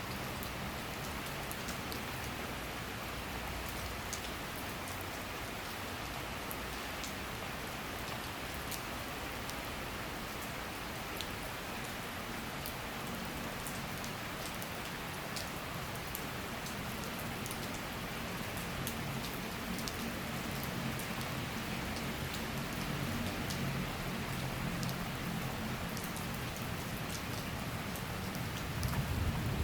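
Steady summer rain shower falling, a constant hiss of rain with many individual drops ticking on surfaces. A low hum underneath grows louder in the second half.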